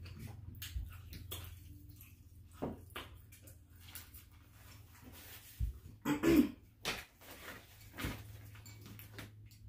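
Mouth sounds of eating fried chicken: chewing and smacking in scattered short clicks, with a louder brief burst about six seconds in, over a steady low hum.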